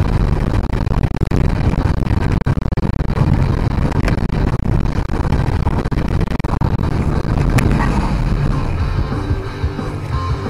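Loud, steady low rumble of a vehicle on the road, with music over it; one sharp click about three quarters of the way through, and a guitar track comes to the fore near the end.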